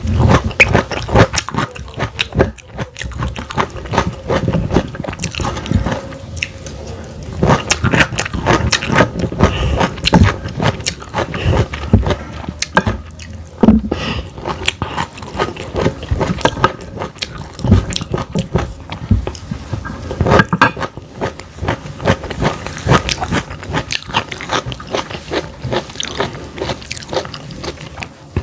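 A person biting and chewing food close to the microphone, a dense run of irregular crunchy clicks and mouth sounds.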